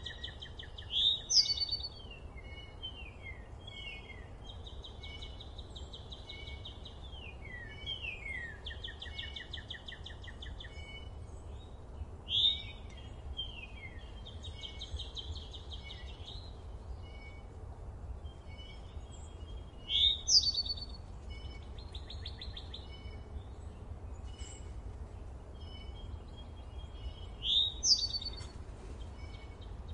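Songbirds singing: several chirping, sliding and trilling phrases overlap, and a loud sharp call comes back about every seven or eight seconds. A low, steady rumble runs underneath.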